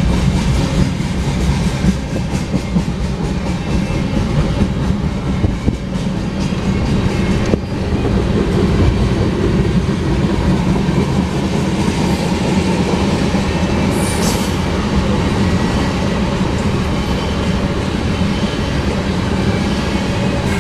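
Freight cars of a long mixed-freight train rolling past, their steel wheels making a steady heavy rumble on the rails. A brief high-pitched wheel squeal comes about two-thirds of the way through.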